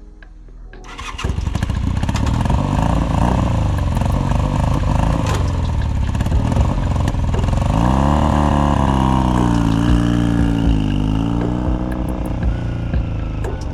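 1983 Honda Nighthawk motorcycle being ridden on a test ride. After about a second of quiet, the engine picks up and runs loud under load, its pitch rising and falling as it revs up and eases off.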